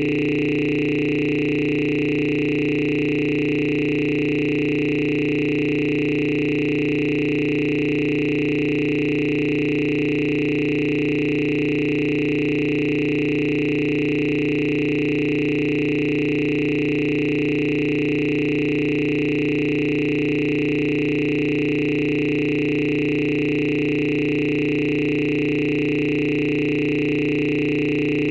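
A steady electronic drone: several sustained tones, low, middle and high, held together without any change.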